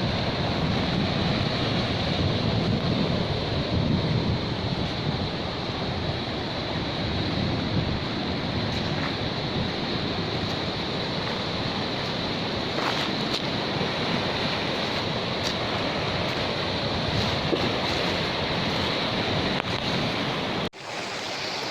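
Sea surf washing onto a beach, a steady rushing wash with wind on the microphone. Near the end it cuts off abruptly and gives way to a thinner, steadier hiss.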